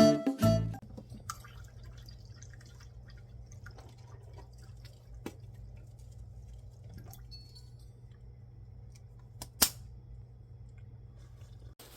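A few separate small clicks and taps over a steady low hum in a quiet room, the loudest about three-quarters of the way through. Strummed acoustic guitar music ends in the first second.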